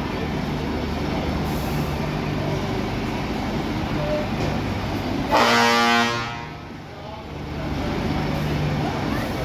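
Trucks' diesel engines running, with one loud truck horn blast lasting about a second, a little over five seconds in.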